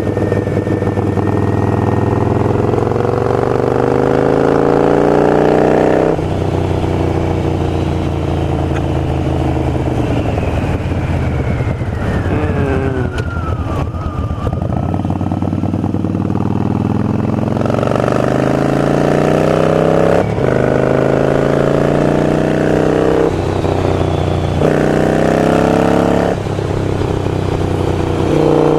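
Harley-Davidson Sportster Iron 883's air-cooled V-twin running through Vance & Hines Grenades slip-on mufflers, with the pitch climbing under acceleration and dropping sharply at each upshift. Midway it falls steadily as the bike slows, then it pulls hard again through several quick shifts near the end.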